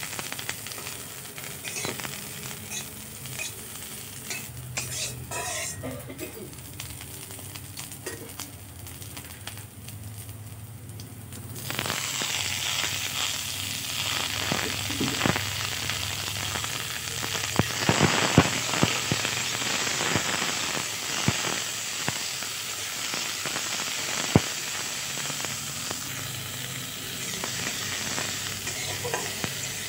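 Sliced onions and green chillies frying in oil in a metal wok, with a metal spatula scraping and tapping the pan. About 12 s in, chopped tomatoes go into the hot oil and a much louder sizzle takes over. Sharp clicks of the spatula against the wok come as they are stirred.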